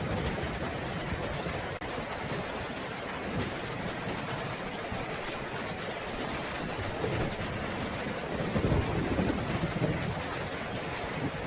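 Steady rain falling, with a low roll of thunder that builds about seven seconds in and is loudest around nine seconds before fading.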